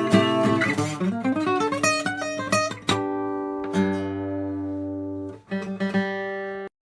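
Donner 3/4-size dreadnought acoustic guitar played: strummed chords, then a quick run of single picked notes, then chords left to ring with a fresh strum, cutting off abruptly near the end.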